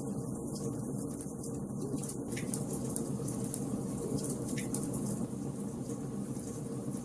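Wood fire burning in a fireplace: a steady low rush of flames with many small crackles and pops from the burning logs.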